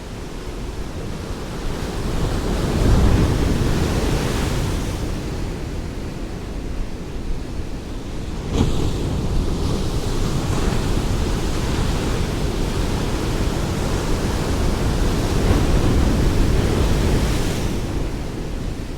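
Ocean waves breaking and washing on a shore in a steady rushing surf, with swells about 3 seconds in, a sudden crash at about 8.5 seconds and another build around 16 seconds before it eases near the end.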